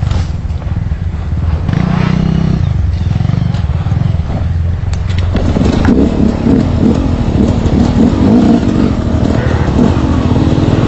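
Trail motorcycle engine running at low revs, its revs rising and falling repeatedly from about halfway through.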